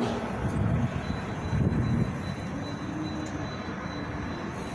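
Steady low rumble of vehicle traffic, with an engine's hum that shifts in pitch.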